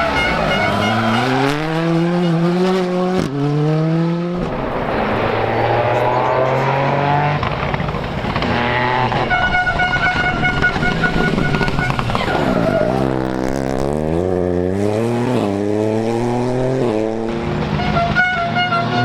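Rally car engine accelerating hard through the gears: the revs climb, break sharply at each quick upshift and climb again. Partway through the revs drop off as the car slows for a corner, then it pulls hard through several gears again. A separate steady high-pitched tone sounds for a few seconds in the middle and again near the end.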